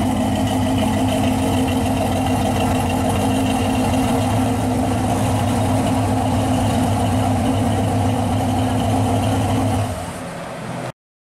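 Chevy II Nova's engine idling steadily. It drops quieter about ten seconds in and then cuts off abruptly.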